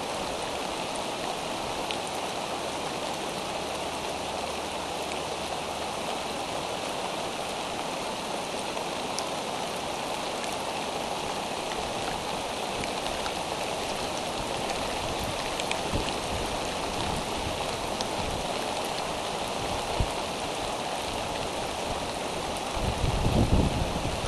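Steady rain falling on the eagle nest and tree, a constant hiss with scattered drip ticks and one sharper knock about two-thirds of the way through. Low rumbling thunder begins near the end.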